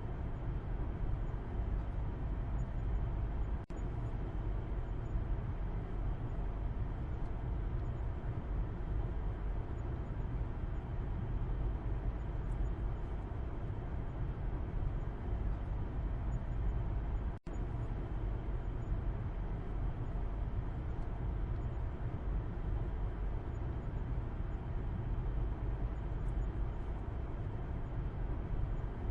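Steady car interior noise heard from the back seat while driving: low road and engine rumble with tyre hiss. The sound cuts out for an instant twice, about three and a half seconds in and again about seventeen seconds in.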